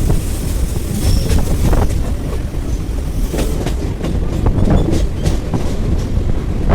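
Chennai suburban electric local train running, a steady low rumble with irregular sharp clacks of the wheels over the rail joints.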